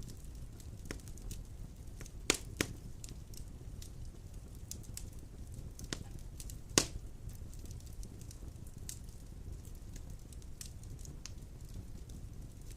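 Large logs burning in a stone fireplace: a low steady rumble of flames with light crackling. There are occasional sharp pops, two close together about two seconds in and a louder one near the middle.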